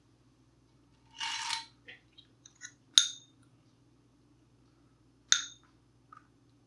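A brief rustle about a second in, then two sharp clinks of tableware, like cutlery against a dish, a little over two seconds apart, with a few small ticks between.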